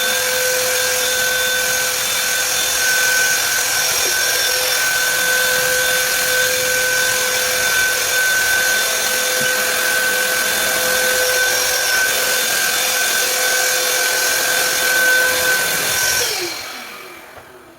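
An electric power tool's motor running steadily with a high whine, then switched off near the end and spinning down.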